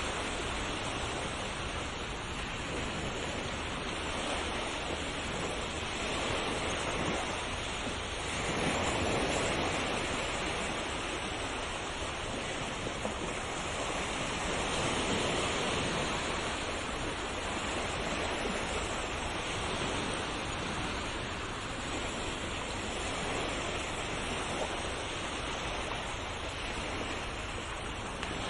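Ocean waves washing onto the shore: a continuous surf hiss that swells and eases every few seconds.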